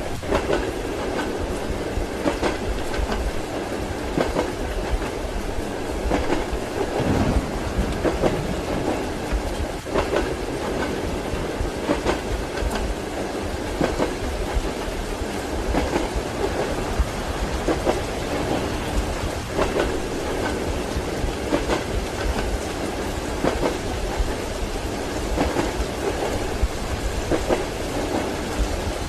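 Steady rumble of a moving train carriage, with the wheels clacking over rail joints about every two seconds, mixed with the hiss of rain.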